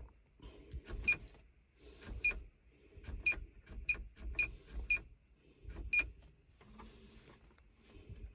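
Short, sharp clicks with a brief high ring, about seven of them at uneven intervals, from switches or buttons being worked in a small truck cab, over a faint low rumble.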